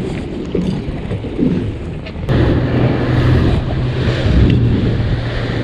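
Fishing boat's engine running under wind and water noise; about two seconds in, the steady engine hum and the rush of noise step up suddenly and stay louder.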